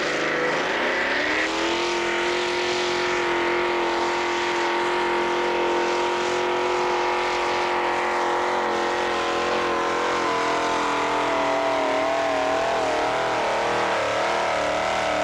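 Pulling tractor's engine revving up and held at high revs as it drags the weight sled down the track. From about ten seconds in the revs waver up and down as the load builds toward the end of the pull.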